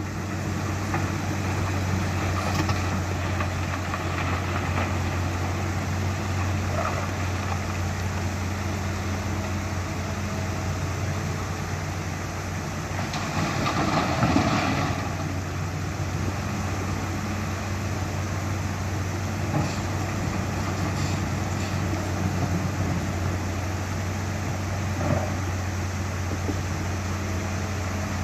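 Hitachi excavator's diesel engine running at a steady hum, with a louder stretch of noise about halfway through as the machine works.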